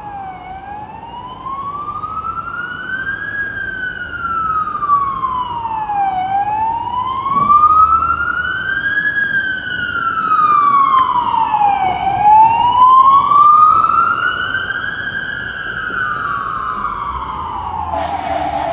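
Fire truck siren sounding a slow wail, its pitch rising and falling about every six seconds, growing louder toward the middle as the truck approaches and easing off afterwards. Near the end a different, harsher sound cuts in over it.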